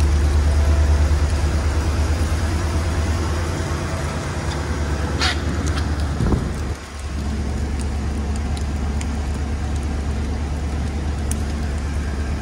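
Mercedes-Benz 450SL's V8 idling steadily, with a door thump about six seconds in. After that the idle is heard from inside the cabin.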